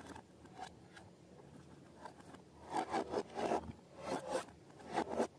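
Slime-making materials being handled, making short scraping and rubbing strokes: a few faint ones early, then a cluster of louder strokes from about halfway through to near the end.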